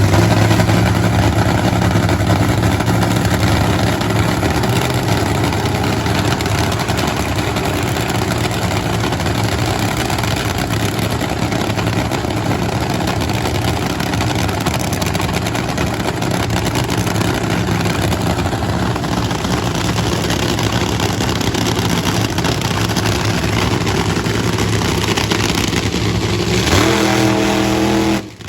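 Drag-race car engine running loud and steady. Near the end a sharper pitched engine note comes in, then the sound drops off suddenly.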